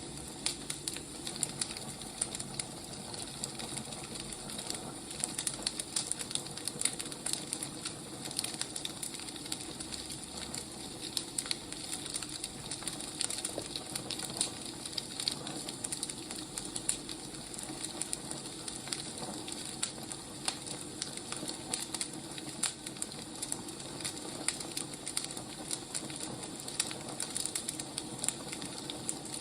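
Burning firewood crackling: a steady hiss with many small, irregular pops.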